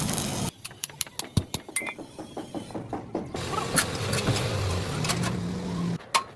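A run of sharp, irregular knocks and clicks over a low steady hum, with a steady noise cutting off about half a second in.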